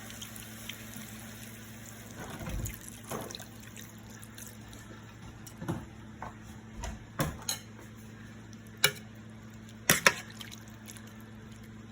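Water poured into a pan of browned chicken, with splashes and several sharp clinks, the loudest two about nine and ten seconds in.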